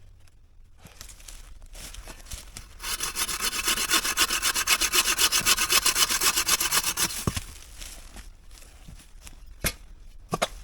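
Hand saw cutting through wood in quick, even back-and-forth strokes for about four seconds, then stopping, followed by a few knocks.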